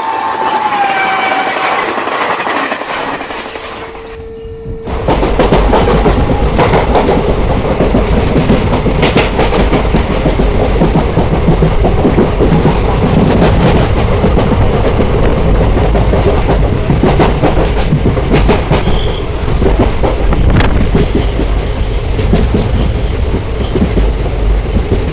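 Passenger train running on Indian Railways track: a horn note falls away in the first second or so, then after a quieter few seconds a loud rumble with wheels clattering over the rail joints starts suddenly at about five seconds and carries on steadily.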